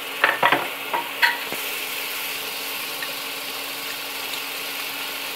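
Chopped tomatoes and onions sizzling gently in oil in a kadhai, with a few sharp clicks of a spoon against the pan in the first second and a half.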